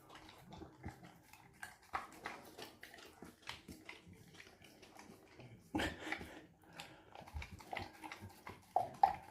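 Puppy eating mashed potatoes, gravy and turkey: a run of soft chewing and smacking clicks, with louder smacks about six seconds in and near the end.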